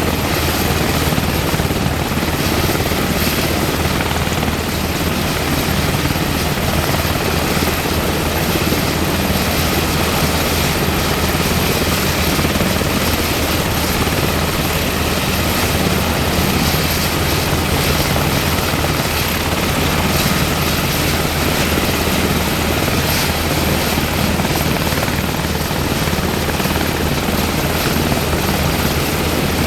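UH-60M Black Hawk helicopter running steadily, its twin turboshaft engines and rotor making a loud, even sound with no rise or fall.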